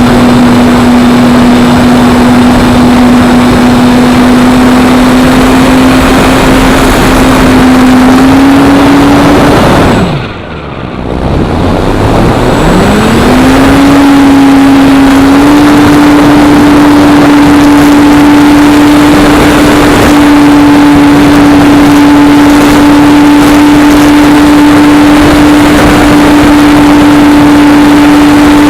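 Electric motor and propeller of a Parkzone P-47 RC plane running at a steady high-pitched whine, drowned in wind noise. About ten seconds in the throttle is chopped and the pitch falls away, then it spools back up over a couple of seconds and holds steady, a little higher than before.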